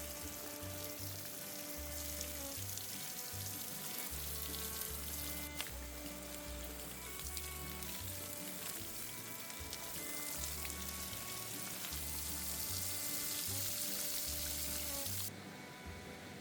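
Gentle background music with a steady bass pattern over a steady hiss of water, which cuts off abruptly about fifteen seconds in.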